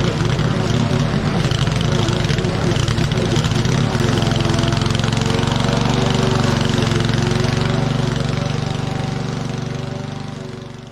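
Petrol lawn mower engine running steadily under load, fading away over the last few seconds.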